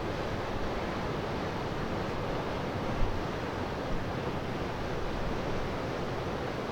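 Wind buffeting the microphone over the steady wash of surf, with a couple of brief gusts about three and four seconds in.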